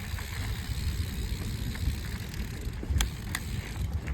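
Mountain bike riding on a dirt trail: a steady low wind rumble on the microphone over tyre and frame noise, with two sharp clicks about three seconds in.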